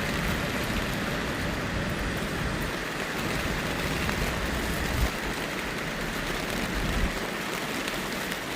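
Steady heavy rain hissing on a city street, with two low thuds about five and seven seconds in.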